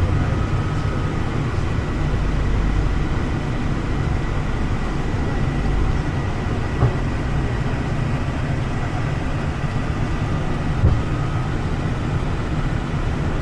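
Passenger train running on the rails: a steady low rumble with a faint steady high tone, and two single knocks, about seven and about eleven seconds in.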